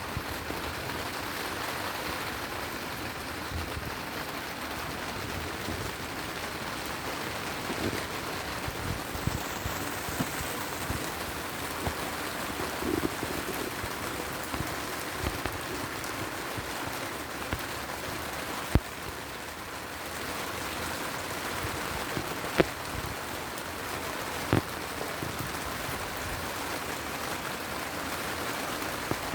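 Steady heavy rain falling, with a few sharp clicks standing out in the second half.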